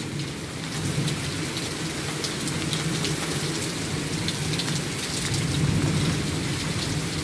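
Heavy rain pouring steadily, with raindrops pattering close by and a low rumble that swells about two-thirds of the way through.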